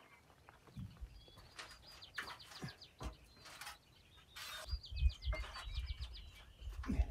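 A small bird singing two runs of rapid repeated high chirps, with scattered knocks of feet and a board on an aluminium stepladder as a man climbs it. A low rumble comes in about two-thirds of the way through and is the loudest sound.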